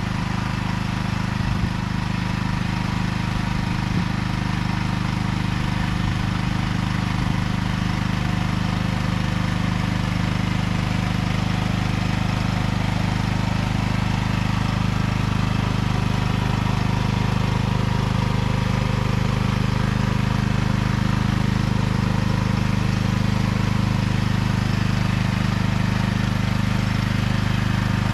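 Small engine of a vegetable transplanter running steadily at an even speed while it plants corn seedlings.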